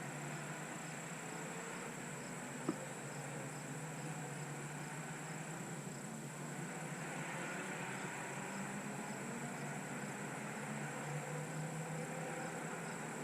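Steady outdoor trackside noise: the faint drone of race cars circulating at a distance on the formation lap, growing a little louder after about six seconds, under a steady high insect-like whine, with one sharp click a little over two and a half seconds in.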